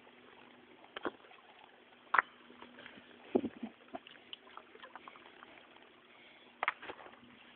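Small forest stream trickling faintly, with a few sharp knocks and clacks scattered through, the loudest about two seconds in.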